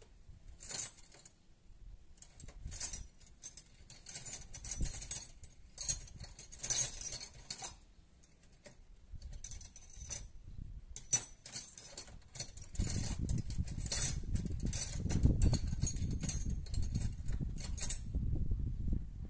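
Small metal tools clinking and jangling in irregular bursts as they are handled and sorted through for a feeler gauge. A heavier, rumbling handling noise joins in for the last six seconds or so.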